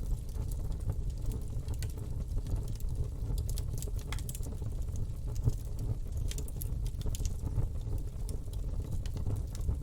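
Campfire burning, with irregular crackles and pops over a steady low rumble.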